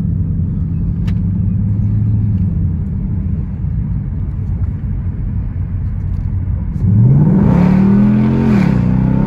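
2017 Ford Mustang GT's 5.0-litre Coyote V8 through a muffler-deleted stock exhaust, heard with the window down: a steady low engine note, then about seven seconds in a quick rev that climbs, peaks and drops back.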